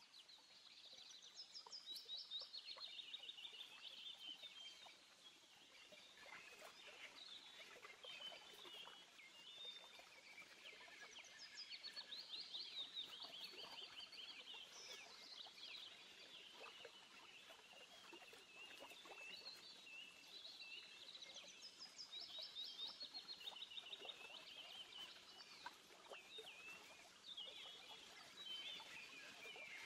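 Faint birdsong: several small birds chirping and trilling in quick runs of repeated high notes, with occasional soft clicks.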